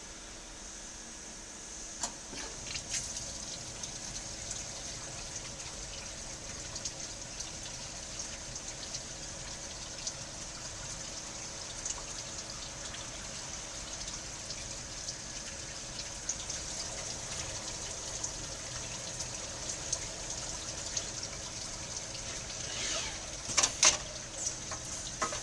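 Tornos Delta 12/5 Swiss-type CNC lathe running, with a steady high hiss and liquid trickling, likely cutting fluid. Sharp clicks come now and then, with a burst of louder clicks near the end.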